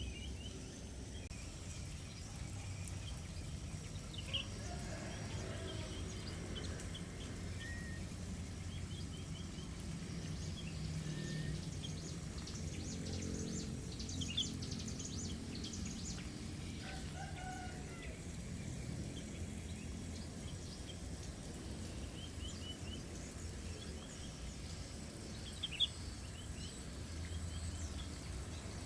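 Small aviary birds chirping in short, high calls scattered throughout, over a steady low background rumble, with a longer, lower call near the middle.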